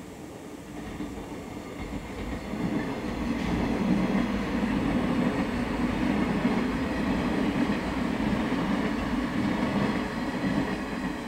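Local electric multiple-unit train passing close by: a steady rumble of wheels on rails that builds over the first few seconds and eases off near the end.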